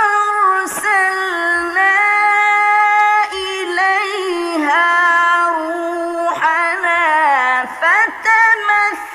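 A woman singing as the video's music, with long held notes and ornamented bends, some gliding down and up, and a few faint low beats underneath.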